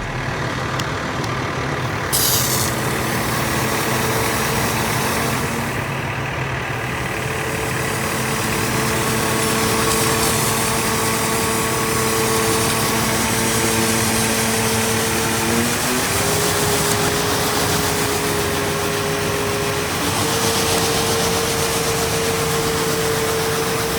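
Freightliner 108SD hydro-excavation vacuum truck running, with a steady whine that steps down in pitch about 16 seconds in and back up about 20 seconds in. A short hiss comes about 2 seconds in.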